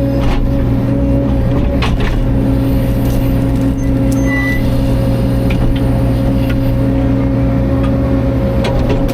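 Caterpillar 305.5 mini excavator's diesel engine running steadily, with a few brief knocks during the work.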